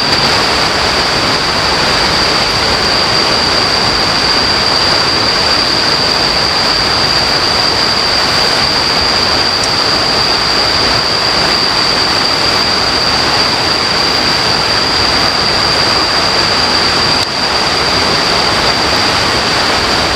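River water rushing steadily, with a steady high-pitched whine running over it.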